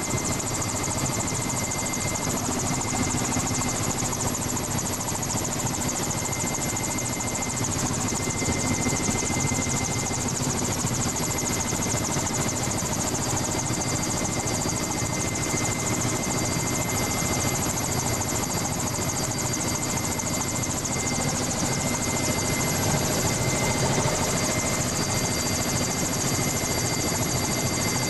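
Helicopter in flight heard from on board: a steady engine and rotor drone with a constant high whine running through it.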